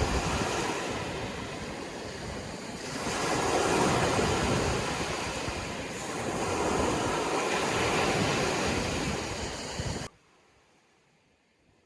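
Sea waves washing in surf, the noise swelling and easing with each wave, then cutting off suddenly about ten seconds in and leaving only a faint hiss.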